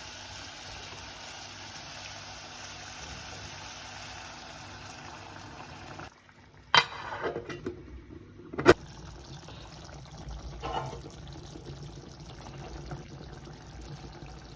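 Liquid being poured into a cooking pot, a steady running splash. Partway through it breaks off briefly, and there are two sharp knocks of a utensil or lid against the pot before the pouring sound resumes.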